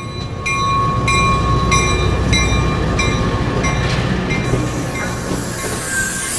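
Moving train: a steady low rumble with regular metallic clicks of the wheels over rail joints, about two to three a second, and a rising hiss near the end.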